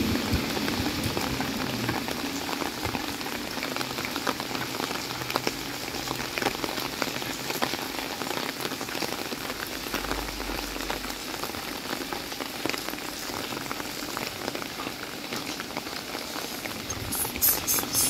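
Steady rain falling on a wet street and pavement, with many scattered individual drips. A few sharper clicks come near the end.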